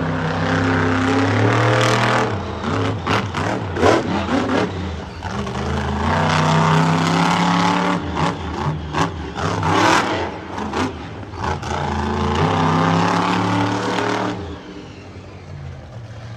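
Monster truck engine revving hard and easing off over and over, with clusters of sharp bangs about three to four seconds in and again around nine to ten seconds. Near the end the engine drops back to a quieter, steady running.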